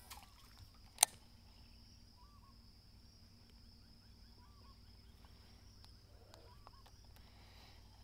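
Quiet creek-side nature ambience: a steady high insect drone, a few short chirping bird calls about two seconds apart, and one sharp click about a second in.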